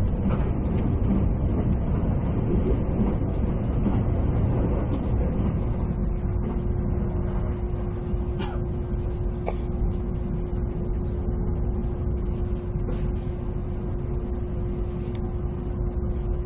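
Cabin noise inside an E657 series electric limited express train on the move: a steady low rumble of the running train, with a steady hum joining about five seconds in.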